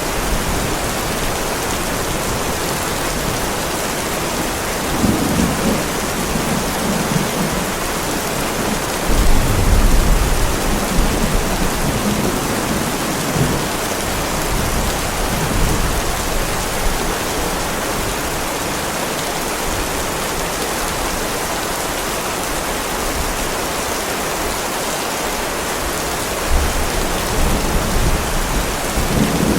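Heavy rain falling steadily on a driveway, with low rolls of thunder rumbling several times, the loudest about a third of the way in and again near the end.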